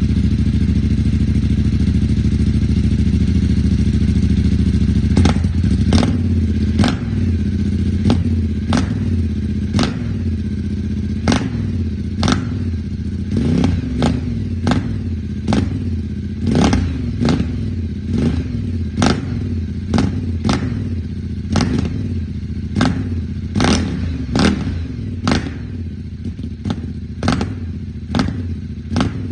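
Ducati motorcycle with an aftermarket full exhaust idling, then blipped with the throttle about once a second, each short rev rising and falling with a sharp crack from the exhaust.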